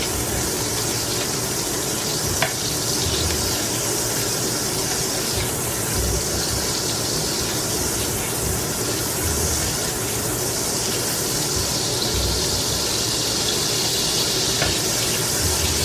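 Diced onion and mushrooms frying in butter and olive oil in a hot pan: a steady sizzle, with a few faint clicks.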